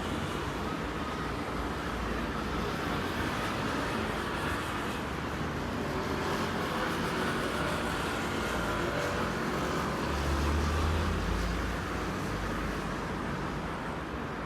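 Steady rumble and rushing noise of a boat under way, with the low rumble swelling briefly about ten seconds in.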